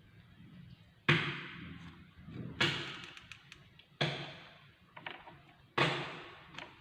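Four sudden thumps, roughly a second and a half apart, each dying away over about a second.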